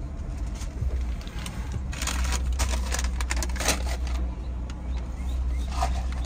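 Low steady hum of a car's idling engine heard inside the cabin, with a burst of hissing, crackling noise from about two to four seconds in.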